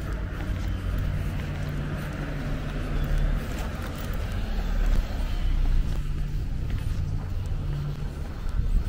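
A car engine running with a steady low hum, along with road rumble.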